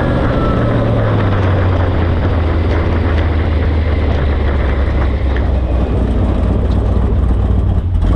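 Vehicle engine running steadily with a low, even drone, its pitch settling slightly lower about a second in.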